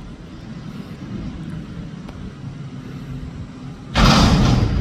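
Diesel engine of a Mack McNeilus front-loader garbage truck running with a low steady rumble as it goes by. About four seconds in comes a sudden loud rushing noise lasting under a second.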